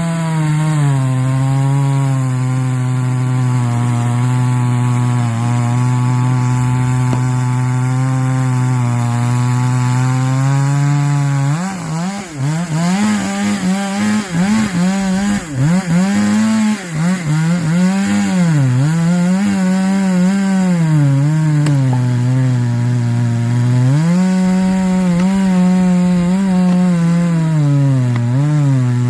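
Chainsaw running at high revs through a large log. The pitch holds steady for about eleven seconds, then dips and recovers again and again as the chain bogs in the cut, then steadies near the end.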